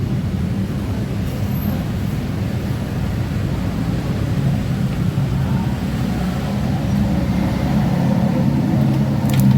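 A motor vehicle engine running steadily at a low pitch, growing louder over the last few seconds, with a few sharp clicks near the end.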